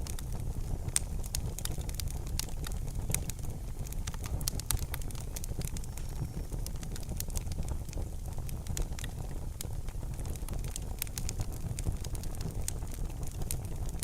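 Fireplace fire crackling: frequent sharp pops and snaps, several a second, over a steady low rumble of the flames.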